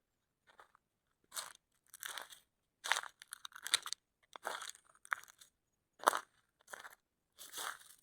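A series of about ten short, irregular crunches with silent gaps between them.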